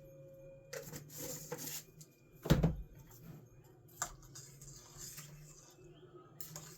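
Cooking and handling noises over a steady low hum: a rustle, then a loud thump about two and a half seconds in, and a sharp click a second and a half later.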